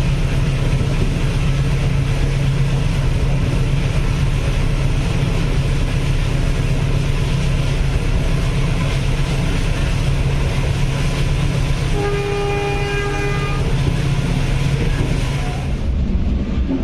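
Passenger train running steadily with a continuous low rumble. About twelve seconds in, a locomotive horn sounds once for about a second and a half.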